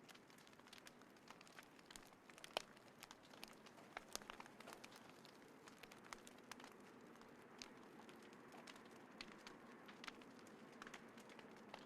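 Small wood fire crackling, with irregular sharp pops over a soft low hiss of burning; one louder pop about two and a half seconds in.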